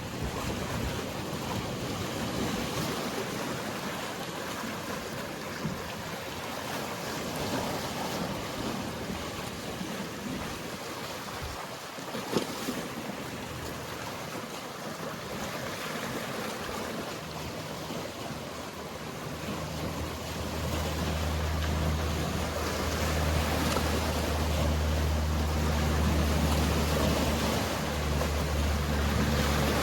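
Sea waves washing with a steady rush. About two-thirds of the way through, a boat engine's low, steady hum comes in and stays, becoming the loudest sound.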